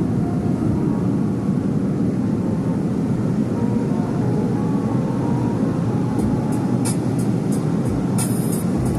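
Automatic car wash equipment running with a steady, heavy rumble, with a few sharp high ticks in the last few seconds.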